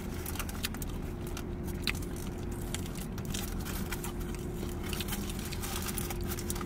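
Close-miked chewing of a fried spicy chicken sandwich with lettuce: many small irregular crunches and mouth clicks, over a steady hum inside a car.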